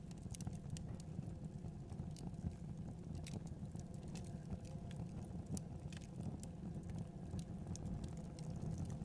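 Wood fire crackling, with irregular sharp pops and snaps scattered through, over a steady low rumble of wind.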